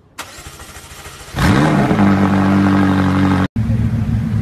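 A McLaren's twin-turbo V8 is cranked by its starter and catches about a second and a half in. It flares up in revs, then settles into a steady, loud high idle. Near the end it gives way to a Pagani Huayra's twin-turbo V12 idling.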